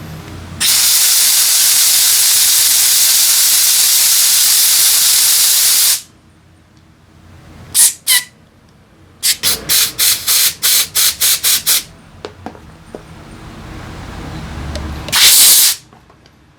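Compressed air hissing from a nozzle, as in blowing out carburetor passages: one long blast of about five seconds, then two short puffs, a quick run of about nine short blasts, and one more short blast near the end.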